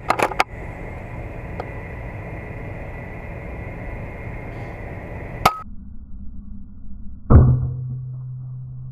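A few sharp clicks at the start and a steady hiss that cuts off suddenly, then about seven seconds in a single sharp air rifle shot with a short ringing tail.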